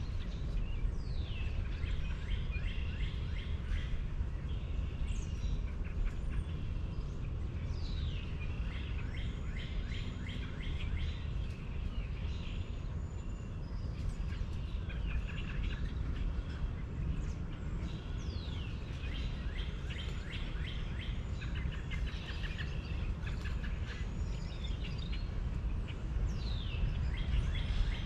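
Birds singing over a steady low rumble. One song, a falling whistle that runs into a rapid trill, repeats several times.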